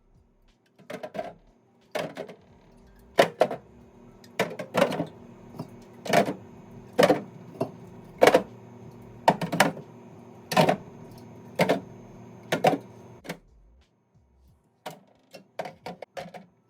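Household items being handled and set down, with sharp clacks about once a second. A faint steady hum runs beneath them until about two-thirds of the way through, and a few lighter clicks follow.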